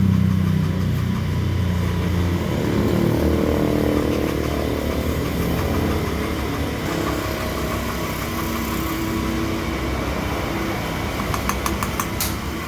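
An engine running, its pitch shifting up and down, with a quick run of sharp clicks near the end.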